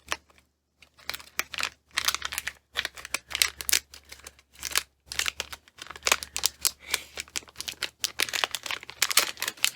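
Packaging being cut and torn open by hand: crinkling and tearing in quick irregular clusters with short pauses between them.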